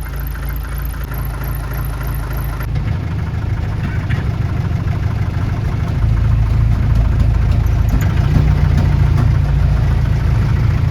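A 4x4 jeep's engine running as it drives, heard from on board as a steady deep rumble that gets louder about six seconds in.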